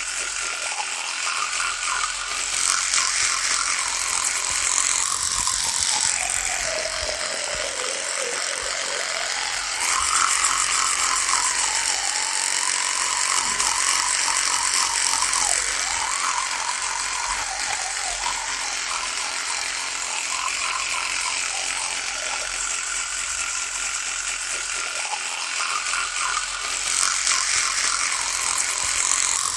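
Electric toothbrush buzzing continuously, its pitch dipping and recovering several times, most deeply a few seconds in.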